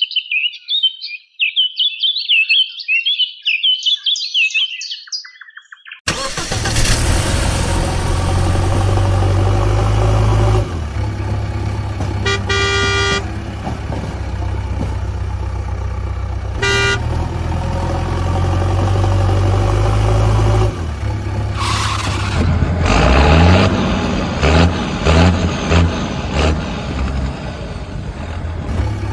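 Animated-style vehicle sound effects: high chirping for the first six seconds, then a steady engine rumble sets in, with two short horn honks, the first about twelve seconds in and the second about seventeen. Near the end, the engine gives a series of short rising revs.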